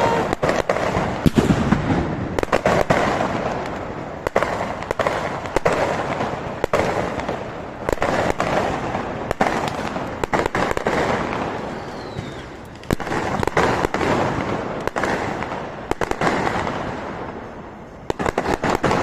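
Diwali firecrackers and fireworks going off: many sharp bangs and crackles over a hissing rush that swells and fades in waves every few seconds.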